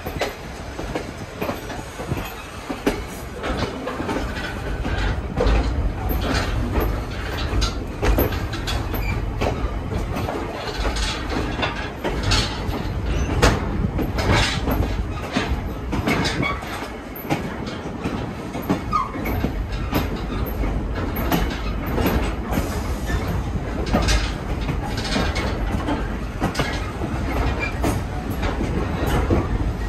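Passenger train in motion, heard from aboard a coach: a steady low rumble with the wheels clicking over the rail joints again and again.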